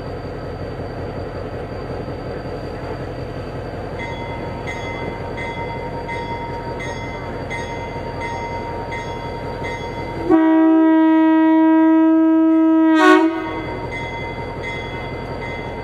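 Train passing with a steady rumble, a faint regular ding about every two-thirds of a second from about four seconds in, and a locomotive air horn sounding one loud chord for about three seconds past the middle.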